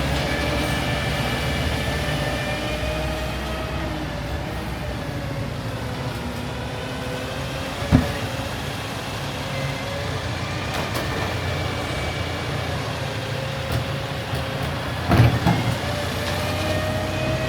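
Garbage truck running steadily with a whine that holds and wavers in pitch, a sharp knock about halfway through and a few more knocks near the end.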